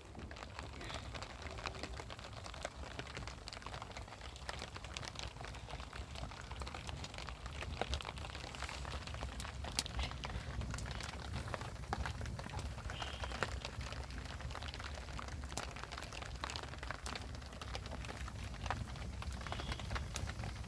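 Steady rain falling, with many scattered drop ticks over a constant low rumble.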